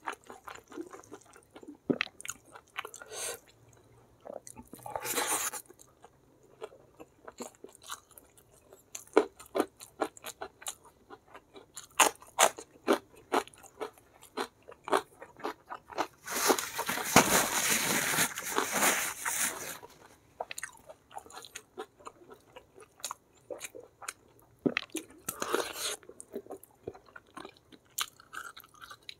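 A person chewing and crunching food close to the microphone: many short wet clicks and smacks, with a few brief crunchy stretches and a longer one of about three seconds a little past the middle.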